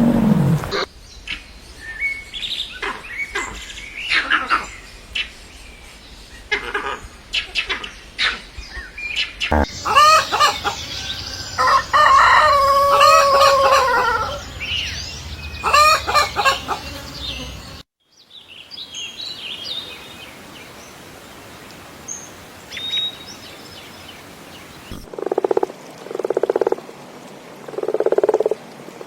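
Poultry calling in a run of short clips: chicks chirping and chickens clucking, with a long, drawn-out crow-like call in the middle, then a few pulsing croaks near the end.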